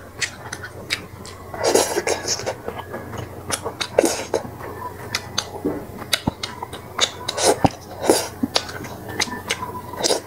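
Close-miked eating sounds: a woman chewing snakehead fish congee, a string of short sharp mouth clicks and lip smacks, a few of them louder.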